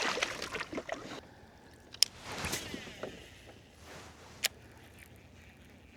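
Water sloshing and handling noises aboard a small fishing boat, with a sharp click about two seconds in and another past four seconds.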